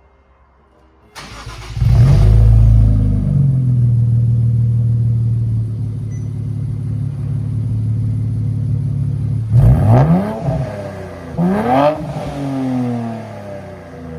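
Nissan Z's twin-turbo V6 starting through an AWE Touring exhaust with aftermarket downpipes. It starts about a second in with a loud flare that settles into a steady idle. Two throttle blips, each rising and falling in pitch, come near the end.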